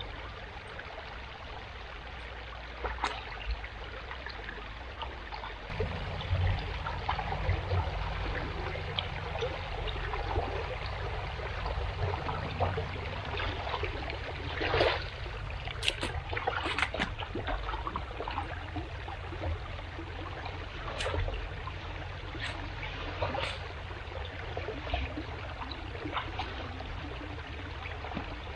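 Floodwater running and trickling, with scattered short splashes and knocks. A low rumble comes in about six seconds in.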